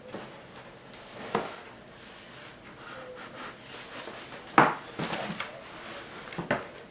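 Cardboard box and packaging being handled, rubbing and scraping as a robot vacuum is taken out, with a few sharp knocks, the loudest about four and a half seconds in.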